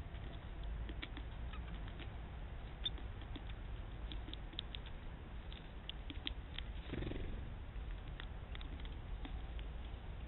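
Tits and sparrows pecking at a hanging seed bell: irregular light taps and clicks over a low steady rumble, with a brief rustle about seven seconds in.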